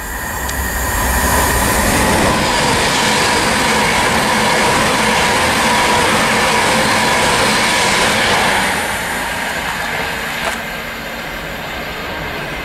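Class 390 Pendolino electric train passing close at speed: a loud rush of wheel and rail noise with a steady high whine over it, lasting about eight seconds before it drops away.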